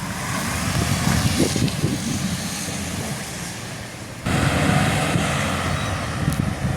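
A vehicle engine rumbling steadily, with wind buffeting the microphone; the sound jumps up abruptly about four seconds in.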